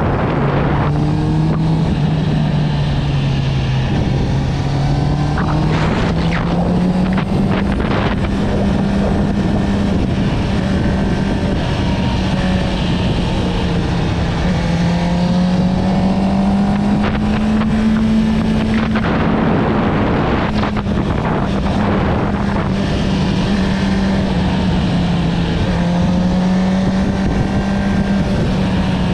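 Honda CB650R inline-four running through an Akrapovic exhaust while cruising, its revs rising and falling gently. Wind rushes over the microphone throughout, with a few stronger gusts.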